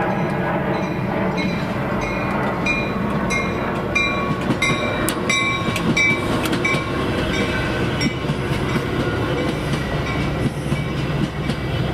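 Train passing close by: a steady rumble with regular clicking from the wheels over the rails.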